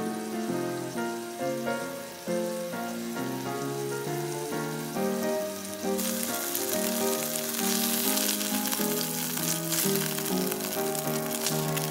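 Food sizzling and crackling in a frying pan, the hiss starting about halfway in, under background music with a melody.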